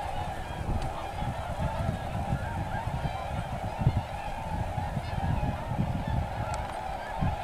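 A large flock of tundra swans calling all at once: a continuous chorus of many overlapping calls, with a low rumble underneath.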